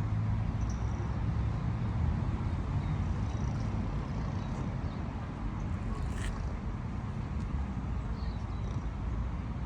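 Christchurch heritage tour tram running, a steady low rumble and hum heard from on board, with a single sharp click about six seconds in.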